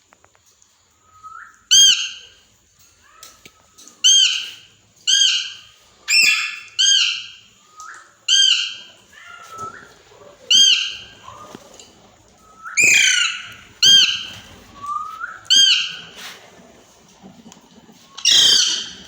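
A parrot giving loud, harsh squawking calls, about a dozen of them one to two seconds apart. Some calls start with a short rising note, and one of the loudest comes near the end.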